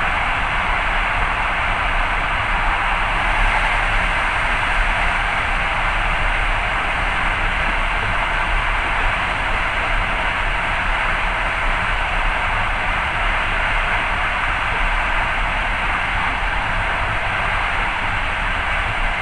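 Steady running noise of a moving passenger train, heard from inside the carriage: an even rush over a low rumble from the wheels on the rails.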